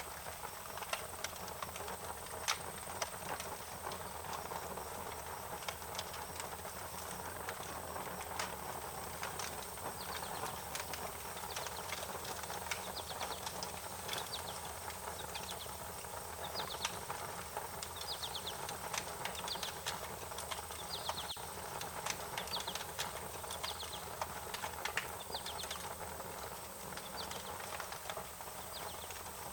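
Wood fire crackling, with frequent sharp pops over a steady hiss. From about ten seconds in, a bird chirps in short, high, repeated trills.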